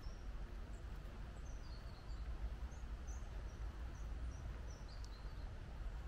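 Small birds chirping in short, high notes, a dozen or so scattered through, over a steady low background rumble.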